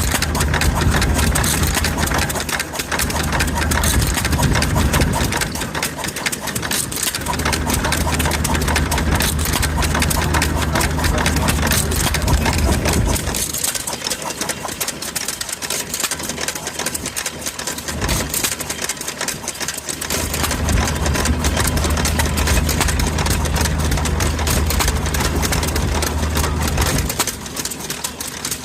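Amanco Hired Man single-cylinder hit-and-miss engine running: it fires in runs of several seconds, then drops off and coasts while missing, with a fast clatter going on throughout. The longest coast, about thirteen seconds in, lasts some six seconds before it picks up firing again.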